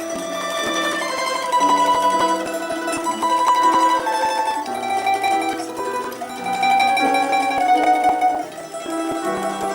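Instrumental music: a melody on a mandolin-type plucked string instrument, its notes held long, over lower accompanying notes.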